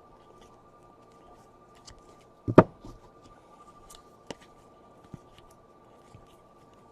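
Trading cards being handled and flipped through: scattered soft clicks and taps, with one louder knock about two and a half seconds in, over a faint steady whine.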